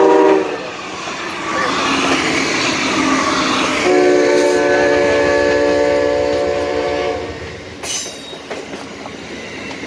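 Amtrak GE P42DC Genesis diesel locomotives and passenger train passing close by: the end of a horn blast at the start, a loud rush of engine and wheel noise, then the horn's chord held for about three seconds. A sharp clank near the end as the passenger cars roll by on clacking wheels.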